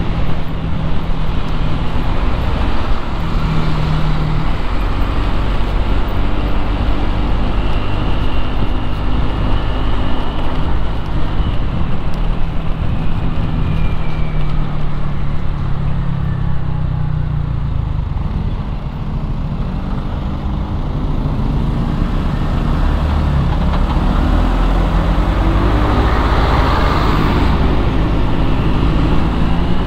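Road traffic noise: a steady low engine drone whose pitch shifts up and down, with a rushing noise that swells and fades a few seconds before the end, like a vehicle passing close.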